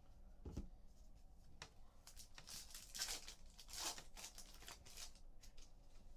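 Faint handling of trading cards: scattered soft clicks and taps, with a longer papery rustle of cards sliding against each other from about two and a half to four seconds in.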